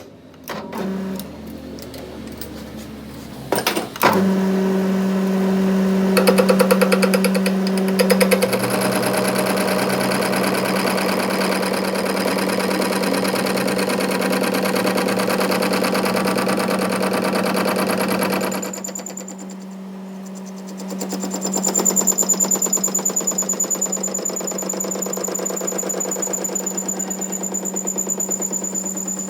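A workshop machine running with a steady hum and a fast, even rattling chatter. It drops away for a couple of seconds about two-thirds of the way through, then starts again with a thin high whine added.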